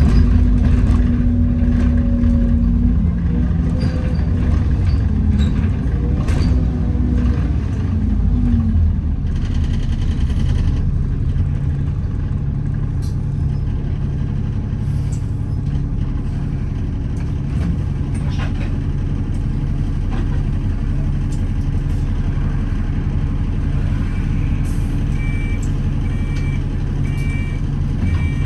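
Inside an Alexander Dennis Enviro400 double-decker bus as it slows: the drivetrain's hoover-like whine falls in steps, then the engine idles with a steady low hum. There is a short hiss of air about ten seconds in, and near the end a beeping warning, about one beep a second.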